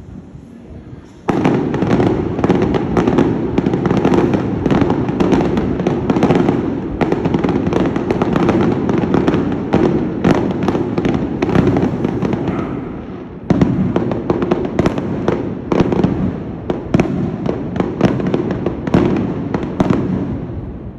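Fireworks display going off in a dense barrage of rapid bangs and crackles. It starts suddenly about a second in, eases briefly past the middle, surges again, then dies away near the end.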